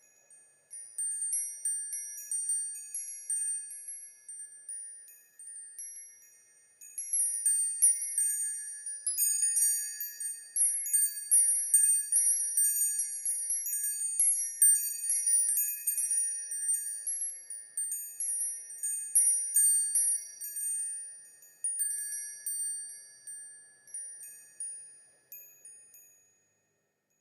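Wind chimes ringing: high metallic tones struck at irregular moments and overlapping as they ring out, sparse at first with a short lull, then busy for a long stretch before thinning and dying away near the end.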